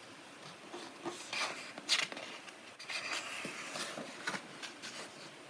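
Paper pages of a coloring book being handled and turned: intermittent soft rustles with a sharper click a little under two seconds in.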